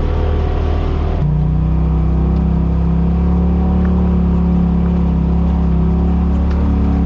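Side-by-side UTV engine running at a steady speed, its sound changing suddenly about a second in.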